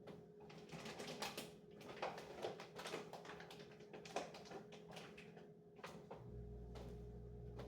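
Irregular light clicks and knocks of items and containers being handled and set down while a refrigerator shelf is cleaned, over a steady faint hum. A low hum comes on suddenly about six seconds in.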